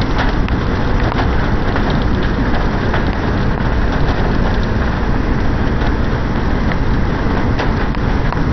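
Rain beating on a moving car, heard from inside the cabin: a steady rushing hiss with scattered sharp drop ticks over low road rumble.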